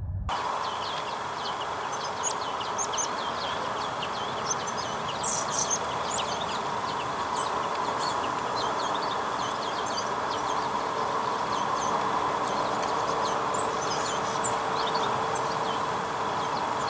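Many short, high bird chirps scattered throughout, from small birds calling, over a steady hiss with faint constant tones.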